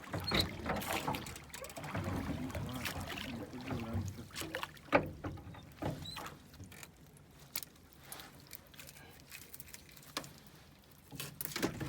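Sounds of working in a small boat on the water: irregular knocks and clatter against the hull with light splashing, as a fishing net is handled. It is busier in the first half and quieter after about six seconds.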